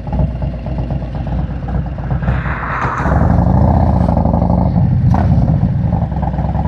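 Harley-Davidson V-twin motorcycle engine idling, then running louder from about three seconds in, just after a brief hiss. A click sounds about five seconds in.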